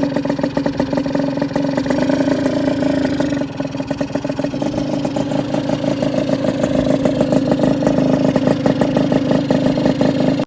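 Honda NS-1 two-stroke single-cylinder engine, bored up to 62.9 cc with a Daytona big-bore kit, running steadily with a deep, low exhaust note. It eases off slightly about a third of the way in, then rises slowly again, and cuts off abruptly at the end.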